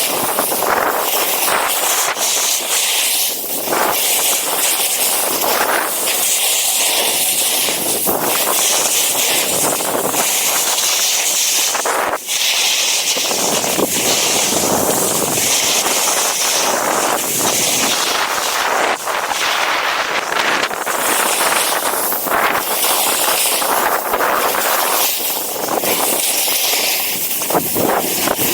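Strong wind buffeting the microphone: a loud, continuous rushing hiss that swells and drops in gusts.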